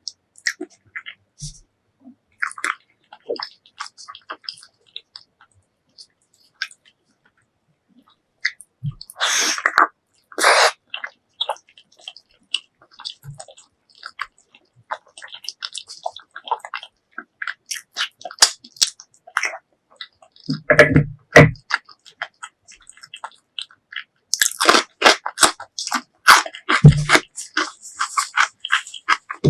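Close-miked eating sounds of braised pork leg being chewed and bitten, with wet mouth clicks and smacks. The clicks are sparse at first, with a couple of longer, louder bites or slurps about nine to eleven seconds in, and they come thick and fast near the end.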